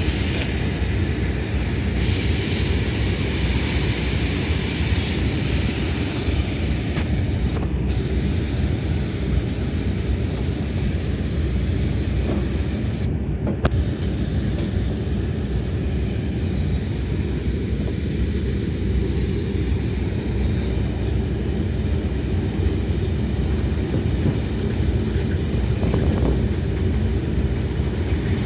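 A long iron-ore freight train of the Mauritanian railway rolling past: a steady low rumble of its ore wagons, with scattered clicks and knocks from the wheels and couplings.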